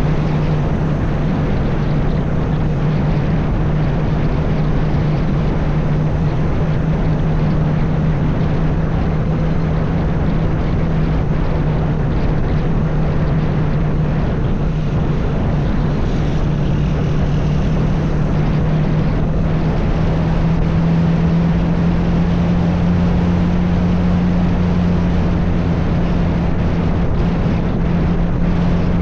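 A motor vehicle's engine running steadily with a strong, constant hum over road and wind noise; its pitch rises slightly about twenty seconds in.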